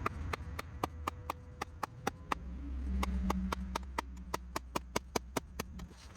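A steady series of sharp clicks or ticks, about four a second, over a low hum.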